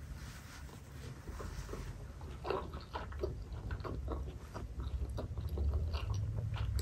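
A bite into a steamed chicken momo dumpling, then chewing with the mouth closed: soft, irregular mouth clicks and smacks, several a second, over a low steady hum.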